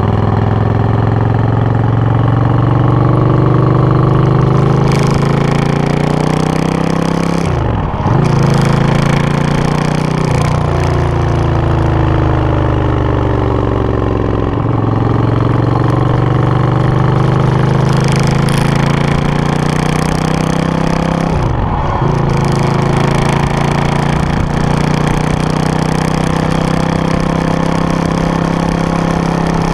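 Suzuki VS800 Intruder's V-twin engine running, its note sliding slowly down and then up over several seconds, with sudden breaks in the note about 8, 10 and 22 seconds in.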